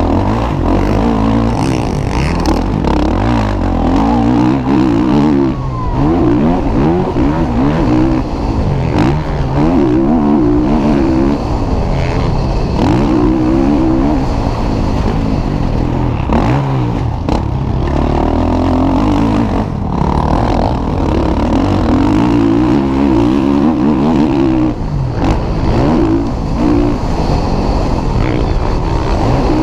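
Motocross motorcycles racing on a dirt track, their engines revving up and dropping back again and again as the bikes pass.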